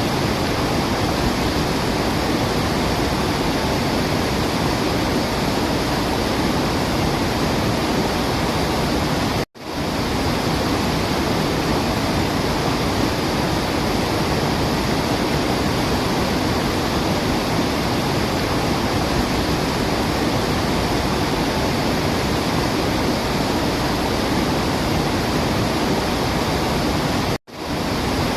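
Waterfall rushing, a steady, even roar of falling water. It cuts out for an instant twice, about a third of the way in and near the end.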